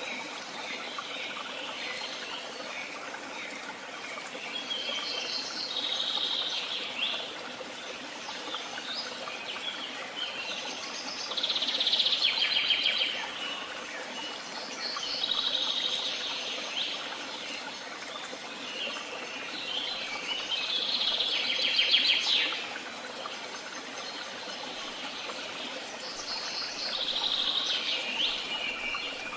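A songbird singing short trilled phrases of about two seconds, five times, spaced several seconds apart, over a steady hiss of running water.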